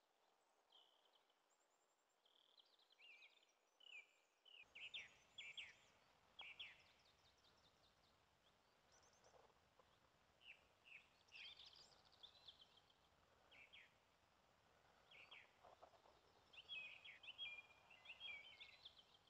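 Several songbirds chirping and singing faintly, in short high calls and trills that come in clusters, over a soft background hiss.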